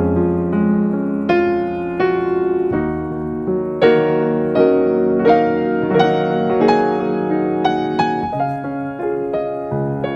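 Background piano music, notes struck one after another at a moderate pace.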